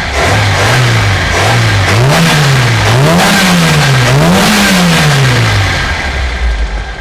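Opel Corsa A GT's 1.3 litre 13SB four-cylinder engine on a Weber 32 DRT carburettor being revved by the throttle: a few short blips, then three bigger revs, each climbing a little higher, before it falls back to a low steady run near the end.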